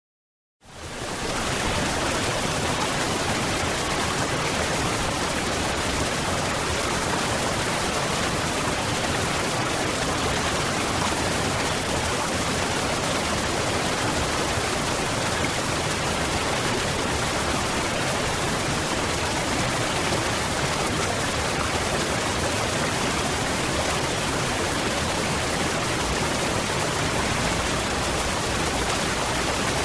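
Waterfall: a steady, dense rush of falling water that rises out of silence within the first second and then holds even.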